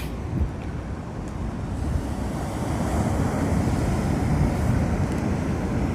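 Sea waves washing on the shore, with wind buffeting the microphone; the wash builds gently over the first few seconds.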